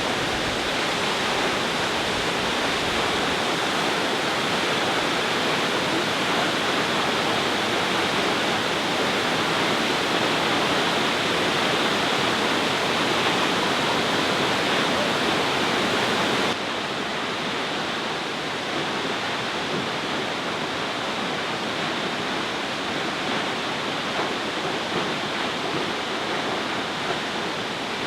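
Nachi Falls, a waterfall with a 133 m drop, pouring steadily as an even, loud rush of falling water. About two-thirds of the way through the sound drops a little and loses some of its hiss.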